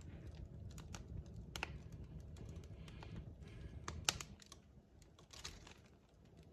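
Wood fire crackling: irregular sharp pops and snaps from burning logs over a low rumble, with the loudest pop about four seconds in.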